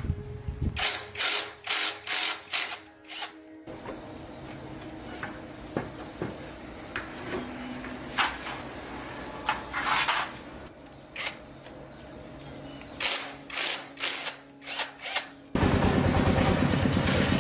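Several runs of short bursts from a power tool. About fifteen seconds in, a motorcycle engine starts and runs steadily with a fast, even pulse.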